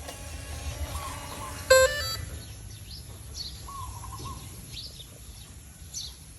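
Birds calling: a repeated warbling call and thin high chirps over a low rumble of wind or background noise. About two seconds in there is a short, loud electronic beep made of stacked tones that steps up in pitch.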